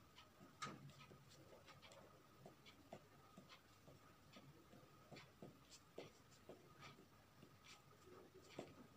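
Faint, irregular scratching strokes of a drawing tool on paper, with a faint steady hum underneath.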